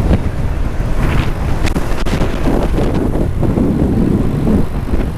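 Wind buffeting an unshielded camera microphone on a moving bicycle: a loud, steady low rumble, with street traffic noise mixed in.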